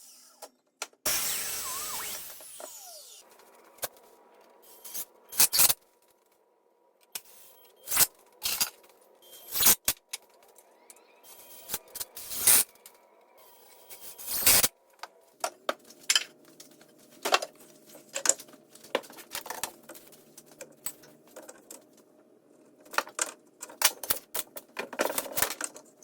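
Irregular knocks, clacks and light rattles of wooden slats and hand tools being handled and set down.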